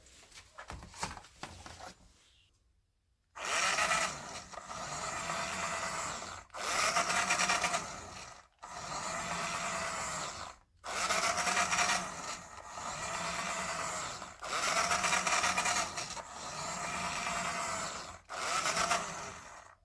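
A tool working material in repeated passes: about seven noisy strokes of roughly two seconds each with short pauses between, starting a few seconds in.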